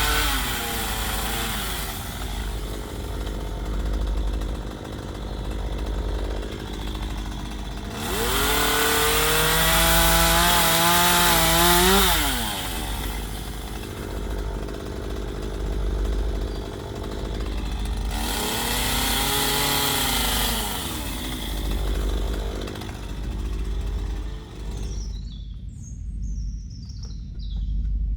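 Chainsaw carving into a wood log, the engine running steadily and revving up twice into longer cuts. Near the end it drops away and birds chirp.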